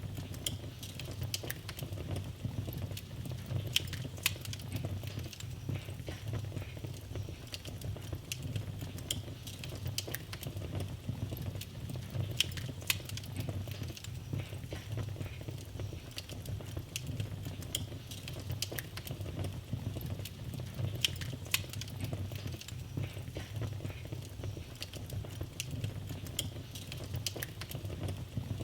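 Wood fire burning in a fireplace: soft, irregular crackling with sharp pops scattered throughout over a steady low rumble of the flames.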